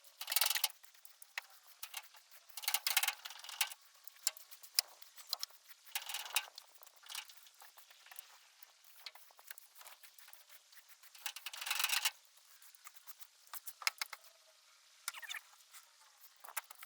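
Handling noises: five short scraping bursts a few seconds apart, amid scattered light clicks and taps.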